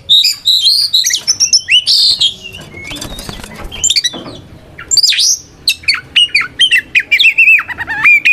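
Oriental magpie-robin singing loudly: a fast, varied run of whistled notes and rapid pitch sweeps, easing off briefly about three seconds in before resuming. It is the full-voiced challenge song that calls out a rival male.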